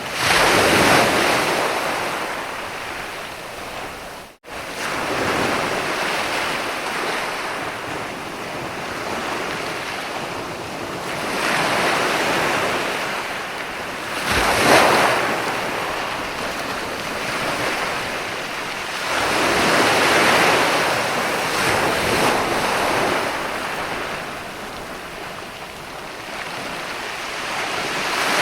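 Sea waves breaking on a beach, swelling and washing back one after another every several seconds, the loudest surge about fifteen seconds in. About four seconds in, the sound drops out for a split second.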